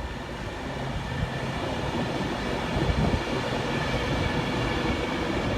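Class 390 Pendolino electric train running past along the platform: a steady rail rumble with faint steady whine tones, growing gradually louder.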